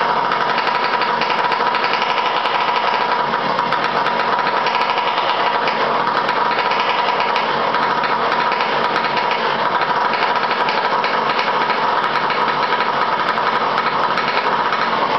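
Small two-stroke motorized-bicycle engine running steadily while still cold. Its carburettor has just been rebuilt and the needle is not yet tuned.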